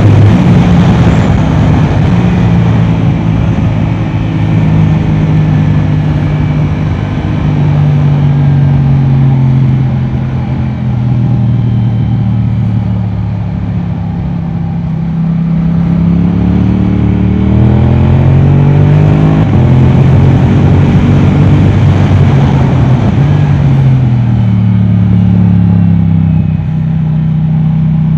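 Yamaha R7's 689 cc parallel-twin engine through an Akrapovic exhaust, riding on track. The revs step up and down through gear changes, with a hard climb through a couple of upshifts past the middle and then a drop a few seconds later.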